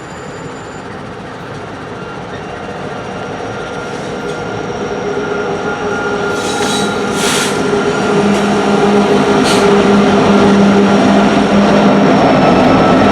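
Slow-rolling freight coal train approaching, its diesel locomotives' drone growing steadily louder, with a steady high whine over it and a few sharp clicks around the middle.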